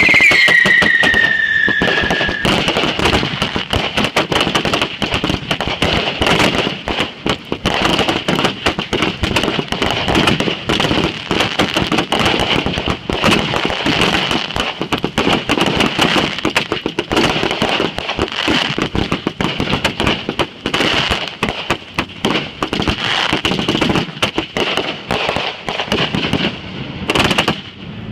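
Fireworks going off after being lit: a whistle falling in pitch over the first couple of seconds, then dense, continuous crackling and popping with a steady hiss underneath.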